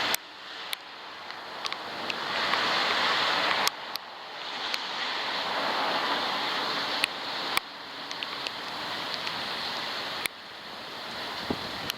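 Rain and wind from a passing thunderstorm: a steady hiss that suddenly drops in level three times and then builds again, with scattered sharp ticks of drops striking the waterproof camera.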